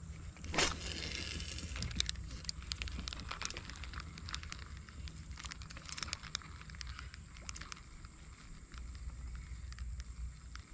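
A quick swish of a mini pen rod being cast, about half a second in, followed by scattered light clicks and crackles from the spinning reel and line being handled.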